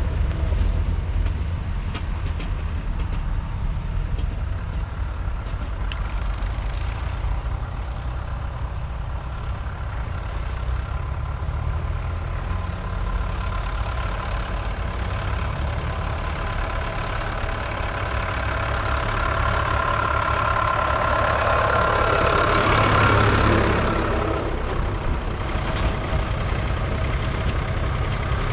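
Vintage tractor engines running at low revs with a steady low rumble. From about 18 seconds in, one tractor's engine grows louder as it draws near, peaks around 23 seconds in and falls away quickly as it passes.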